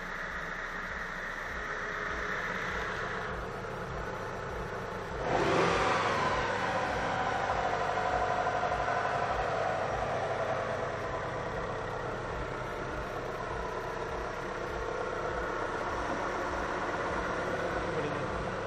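Hyundai Sirius G4JP inline-four engine running steadily. About five seconds in it gets suddenly louder, and a whine then falls in pitch over several seconds before the engine settles back to steady running.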